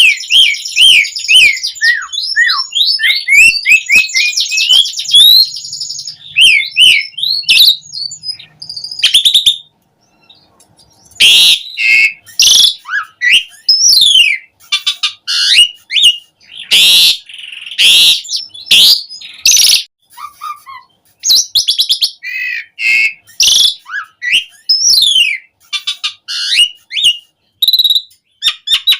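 Pied starling (jalak suren) in full, energetic song: a fast run of whistled notes sliding up and down, mixed with harsh rasping bursts, with a brief pause about ten seconds in.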